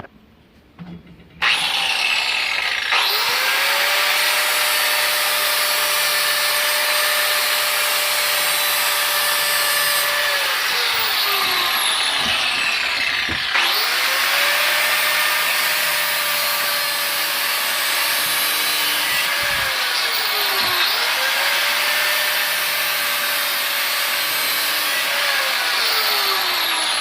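Electric angle grinder grinding the cutting edge of a steel lawnmower blade. It starts suddenly about a second and a half in and runs loud and steady, with the motor's pitch dropping and climbing back about three times.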